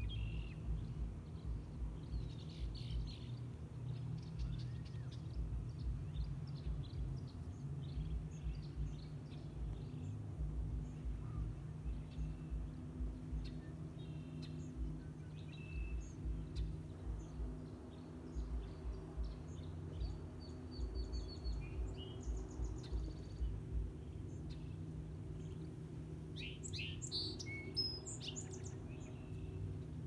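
Red-winged blackbirds and other birds calling and chirping in short scattered notes, with a louder burst of song near the end, over a steady low rumble.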